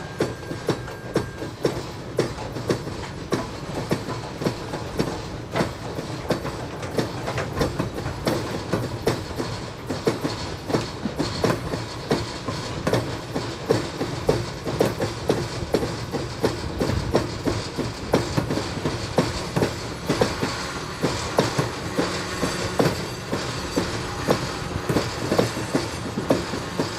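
Freight cars rolling slowly over jointed rail, giving a steady run of clicks and clanks several times a second, with a diesel locomotive engine running underneath.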